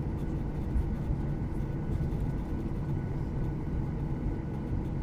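Steady cabin drone of a Boeing 737-800 with its CFM56-7B engines running: a deep, even rumble with a few faint steady whining tones above it.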